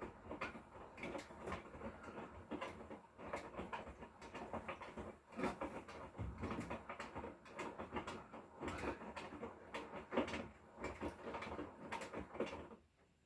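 Irregular clicks, knocks and rustling of things being handled and moved about, stopping abruptly near the end.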